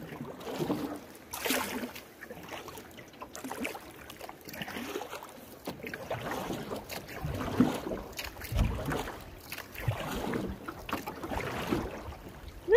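A canoe being paddled in swift, swirling water: irregular paddle splashes and rushing water, with a few low thumps about eight seconds in.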